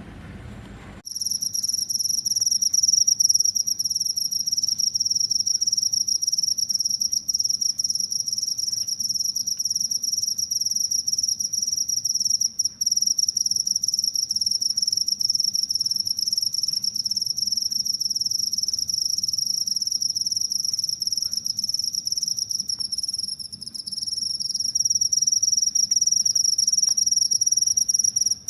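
Cricket trilling: a continuous high-pitched buzzing song that starts about a second in after a low rumble and carries on almost without a break.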